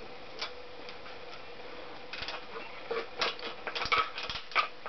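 Clicks and clinks of small metal engine parts and tools being handled during the teardown of a Honda CX500 engine: a few single clicks, then a quick run of clatter from about two seconds in.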